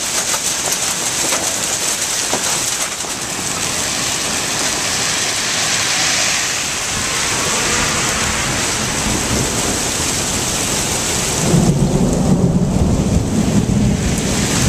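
Heavy rain pouring down with a steady hiss. About twelve seconds in, the hiss suddenly drops away and a low rumble of thunder takes over to the end.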